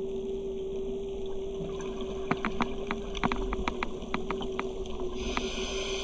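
Underwater sound on a scuba dive: a steady hum, with a run of about a dozen sharp clicks in the middle and a burst of hissing near the end.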